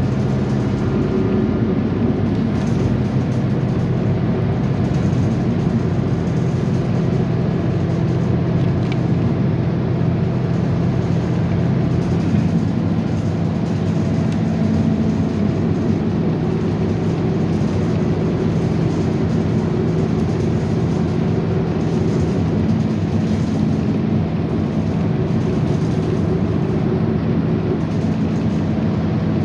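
Steady rumble and low hum of a moving train, heard from inside the passenger carriage.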